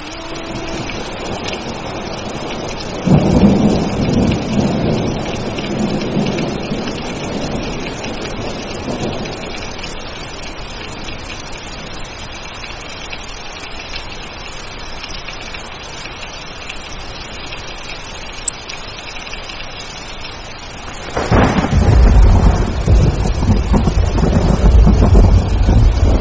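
Steady rain with two rolls of thunder: one about three seconds in that rumbles and fades away over several seconds, and a louder crack near the end that keeps rumbling.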